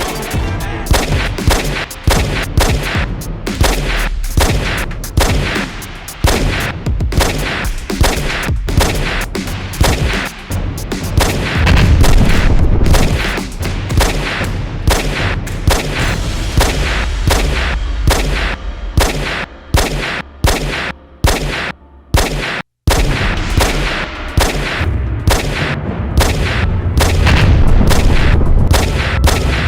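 Battle sound effects: rapid gunfire and machine-gun bursts mixed with explosion booms, with a heavy low rumble about twelve seconds in and again near the end. The sound cuts out for an instant about two-thirds of the way through.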